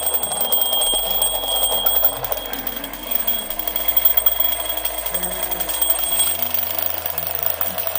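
Small alarm clock ringing its alarm continuously: a fast, rattling ring with a steady high tone. This is the ring that is too weak to wake the clock's sleepy owner.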